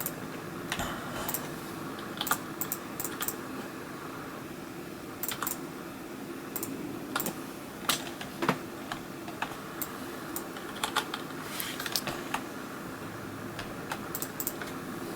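Irregular, scattered clicks of a computer keyboard and mouse, over a steady low hum.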